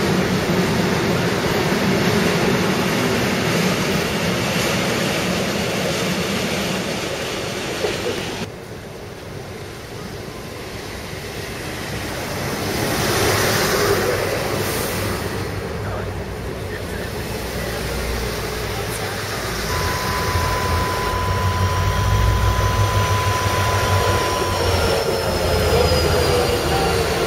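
A container freight train rolling past, wheels running steadily on the rails. After an abrupt change about eight seconds in, a diesel locomotive with double-deck passenger coaches pulls in: a rising low engine rumble, a steady whine for a few seconds, and a slowly falling squeal of braking wheels near the end.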